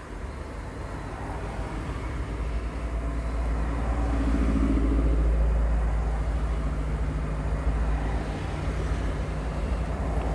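2003 Mitsubishi Outlander engine idling: a steady low rumble that builds over the first few seconds and then holds.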